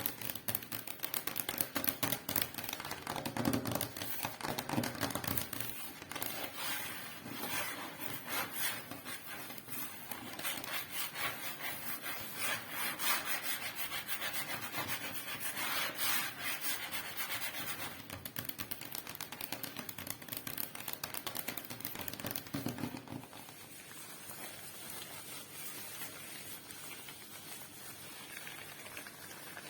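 Rubber gloves rubbing and rustling right against a microphone: close, dense crackling and scraping that softens to a quieter, steadier rustle about 23 seconds in.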